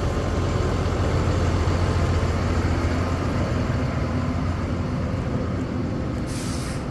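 Engine of a 2009 Ford F650 dump truck running steadily at idle while it works the dump bed, with a short hiss near the end.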